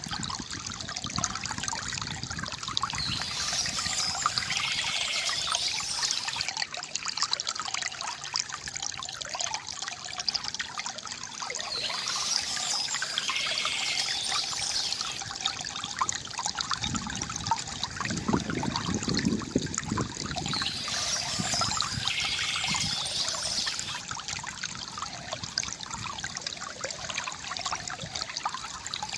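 Water trickling and gurgling steadily from a bamboo fountain, with birds chirping in three short spells.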